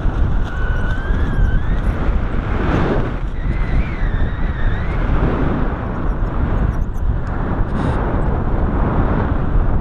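Strong wind rushing and buffeting against the microphone in flight under a paraglider, a heavy unbroken roar. A faint wavering whistle-like tone rides over it near the start and again from about three to five seconds in.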